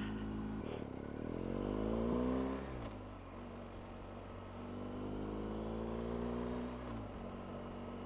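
Motorcycle engine accelerating, its pitch rising steadily, then dropping sharply at an upshift about three seconds in; it pulls up through the revs again and drops at a second upshift near the end.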